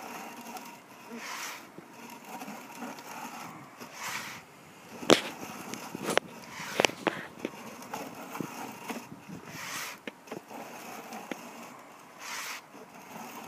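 Sewer inspection camera and its push cable being pulled back through a scaled, debris-laden drain line: soft scraping and rustling swells, with a few sharp clicks in the middle, the loudest about five seconds in.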